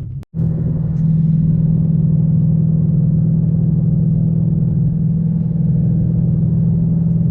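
Steady low drone of a car's engine and road noise heard from inside the moving car, after a brief dropout just after the start.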